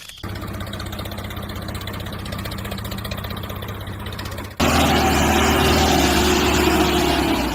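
Small motor of a DIY mini tractor drilling machine running steadily with a hum, jumping abruptly louder about four and a half seconds in.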